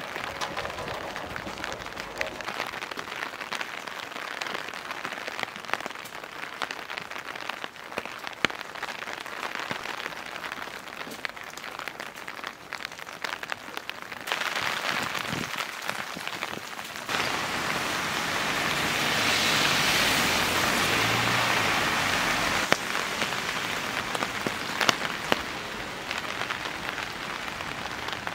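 Steady rain falling, with a hiss and many scattered drop ticks; the hiss swells louder about two-thirds of the way through, then eases.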